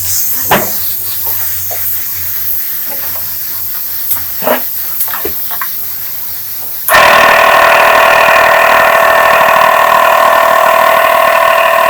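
A steady hiss with a few light clicks and taps, then about seven seconds in an electric motor switches on abruptly and runs loud and steady with a high, multi-toned whine.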